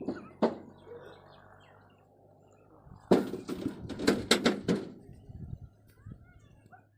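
A quick run of sharp clacks and knocks about three to five seconds in, with a single knock near the start, over a faint steady low hum.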